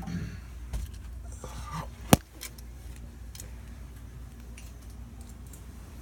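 Metal hand tools being handled: small clinks and rattles, with one sharp metallic click about two seconds in.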